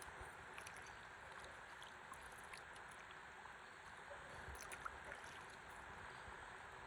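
Faint, steady rush of flowing river water, with scattered small ticks and drips and one slightly louder tick about five seconds in.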